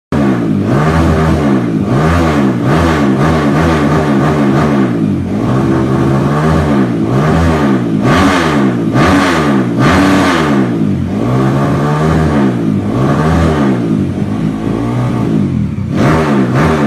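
Bored-up Kawasaki KLX single-cylinder four-stroke engine with an Over Racing aftermarket exhaust, revved over and over: the throttle is blipped up and let fall back roughly every second and a half.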